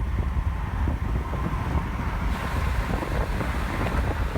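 Strong wind buffeting the microphone: a steady, low, gusting rumble, with a hiss that grows louder about two seconds in.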